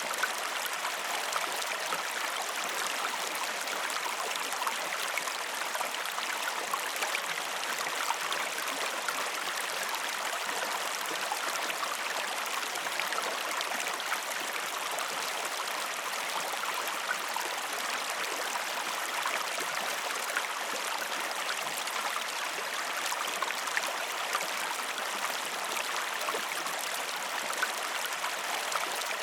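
River water flowing steadily over stones, a continuous babbling rush with fine splashing detail.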